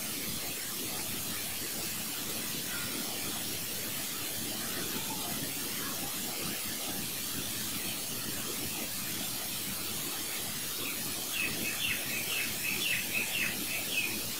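Steady background hiss, with a bird chirping in a quick string of short high calls near the end.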